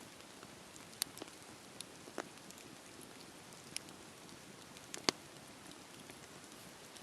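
Wood fire crackling: a soft steady hiss with scattered sharp pops, the loudest about a second in and near five seconds in.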